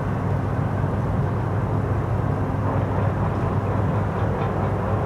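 Steady low drone of the passenger ship Pacific Venus's engines, an even hum with no change in pitch or level.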